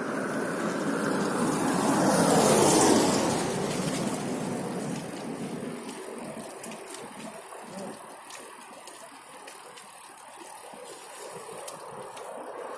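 A vehicle passes close by: its noise swells to a peak about two to three seconds in and falls in pitch as it goes past, leaving quieter street traffic.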